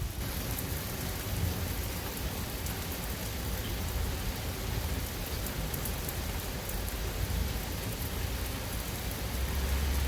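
Steady rain falling, an even hiss with a low rumble underneath that swells near the end.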